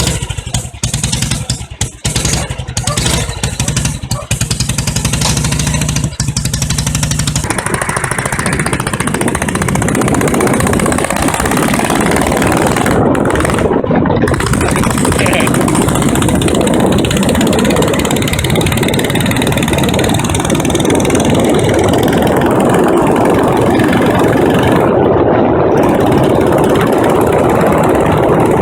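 1937 BSA M20's single-cylinder side-valve engine chugging at low revs, then getting under way. After several seconds a steady rushing noise rises over the engine and holds as the motorcycle rides on.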